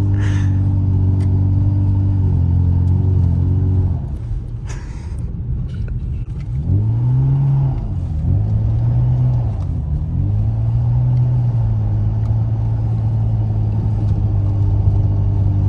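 BMW 335i's turbocharged 3.0-litre straight-six engine holding steady revs, easing off about four seconds in, then revving up and down in three quick swells before settling back to steady revs.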